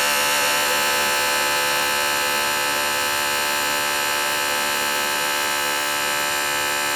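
Steady machine hum made of many tones at once, holding an even pitch and level, with a slight waver just as it starts.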